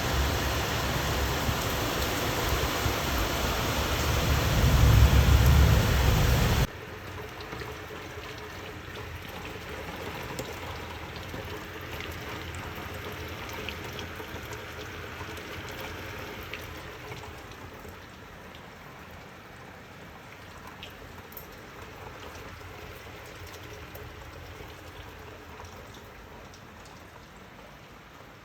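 Heavy rain with a deep rumble of thunder over the first several seconds, loudest about five seconds in. It then cuts off abruptly to quieter steady rainfall with scattered drops ticking.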